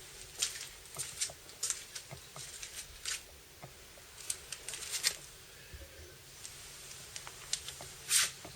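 Irregular light clicks, taps and scrapes of hands working with small parts or tools, with a louder scrape about eight seconds in.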